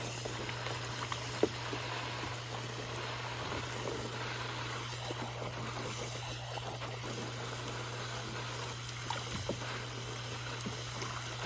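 Light water splashing and trickling in a backyard dog pool, with scattered small splashes and knocks over a steady low hum.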